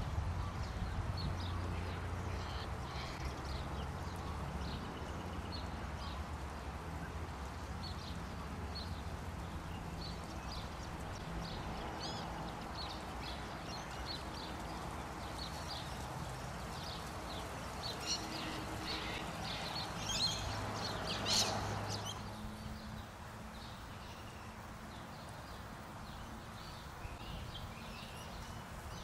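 Birds chirping and calling repeatedly over a steady low hum, with a louder flurry of calls about twenty seconds in.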